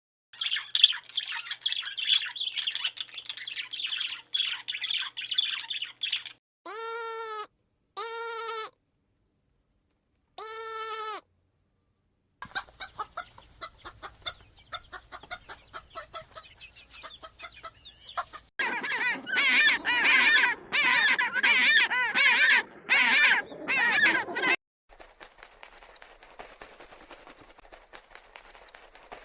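A run of separate bird calls spliced one after another: about six seconds of dense, high chirping, then three short, loud calls with a clear pitch, then longer stretches of busy calling, the last of them faint.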